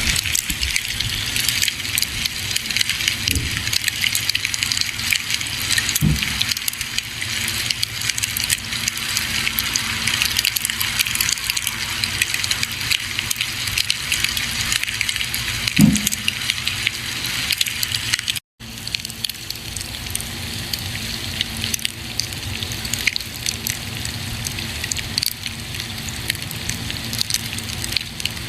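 Campfire burning with a steady hiss and dense crackling, with a few soft low pops from the wood. The sound drops out for a split second about two-thirds of the way through, then carries on.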